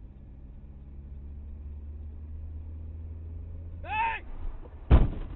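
Steady low rumble of a vehicle's engine and road noise, with a short rising-and-falling hoot about four seconds in, then a single loud thump near the end.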